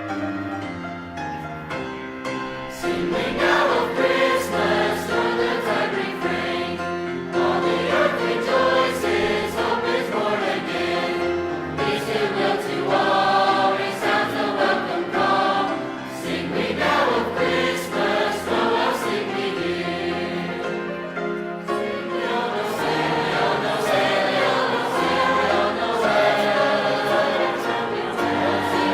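High school choir singing with instrumental accompaniment. The voices come in about three seconds in, over held notes of the introduction.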